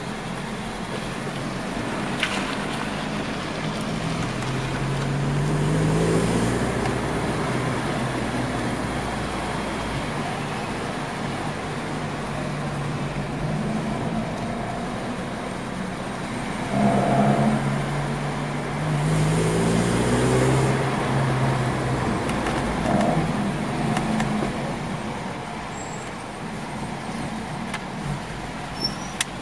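A car engine heard from inside the cabin while the car drives slowly, over a steady road rumble. The engine note rises three times as the car accelerates, then settles quieter near the end.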